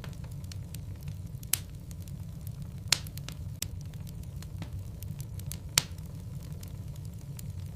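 Logs burning in a fireplace: a steady low rumble of flames with scattered crackles and three loud sharp pops from the burning wood.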